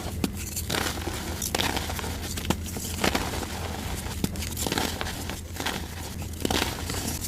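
Blocks of dyed gym chalk being crushed and crumbled, giving a series of irregular crisp crunches and crackles.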